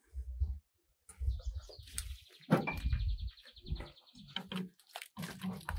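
A bird trilling, a rapid, even, high-pitched trill lasting about two seconds in the middle, over scattered knocks and low thumps.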